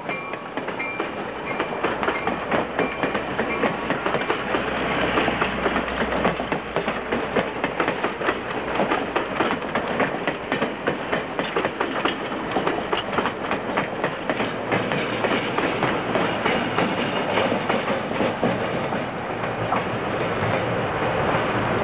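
Steel passenger coaches rolling past close by, their wheels clacking over rail joints in a rapid, uneven rhythm over a steady rolling rumble. The last of the train horn fades out about a second in.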